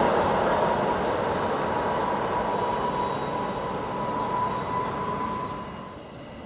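A train running away down the line, its rumble fading steadily, with a steady high whine that cuts off about six seconds in.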